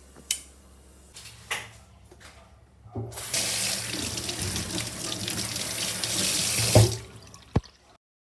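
Water running in a steady stream for about four seconds, after a couple of sharp clicks. It ends in a thump, followed by one more click.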